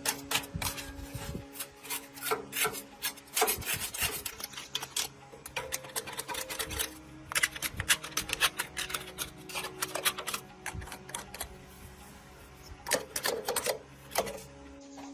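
Rapid, irregular scraping or rasping strokes in clusters, as of hand work on a part with a file, brush or scraper, over quiet background music.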